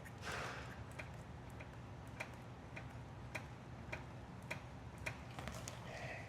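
Faint, regular ticking: short sharp clicks a little under two a second, with a soft breathy swell of noise at the start.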